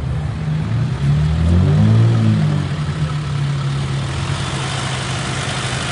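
Car engine running, its pitch rising and falling about a second or two in, then holding steady.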